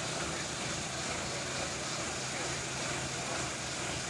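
Vehicle engines idling, a steady low hum under an even wash of traffic noise.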